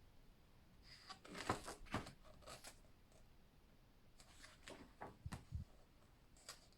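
Faint paper rustles and light taps as the pages of a book are handled and turned: a handful of short sounds scattered between about one and six seconds in.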